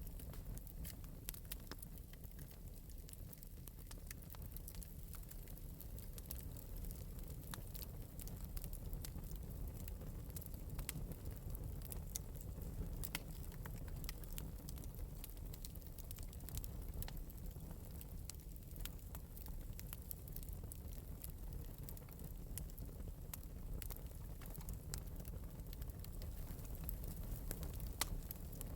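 Wood fire burning in an open metal fireplace, a steady low rumble of flame with scattered light crackles and pops throughout, one sharper pop near the end.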